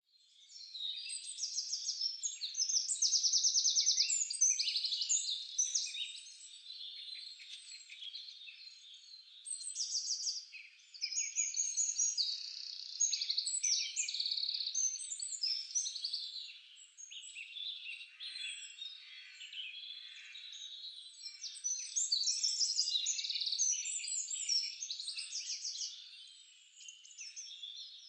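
A chorus of songbirds singing together: overlapping chirps, short sweeping whistles and rapid buzzy trills that swell and fade in waves.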